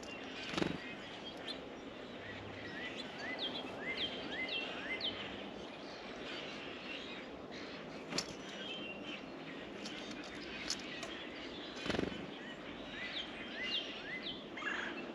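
Small songbirds giving short, quick upward chirps in runs, over a steady background hiss, with two dull thumps, one just after the start and one near the end.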